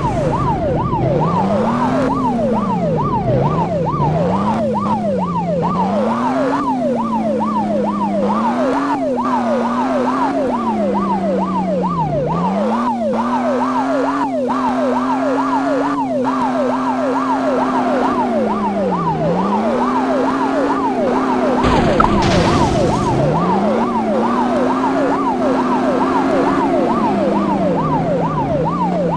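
Police car siren in a fast yelp, its pitch sweeping up and down about three times a second without a break. Beneath it an engine note rises and falls as the car speeds up and slows.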